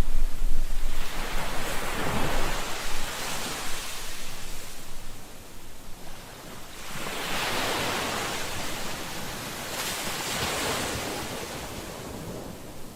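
Sea waves washing onto a shore, swelling and fading in surges every few seconds.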